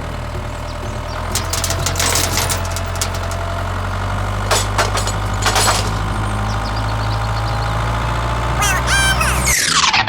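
Mini tractor's small engine running steadily with a low hum, with a few sharp knocks and clatters over it. Near the end there is a quick falling sweep and the engine sound cuts off.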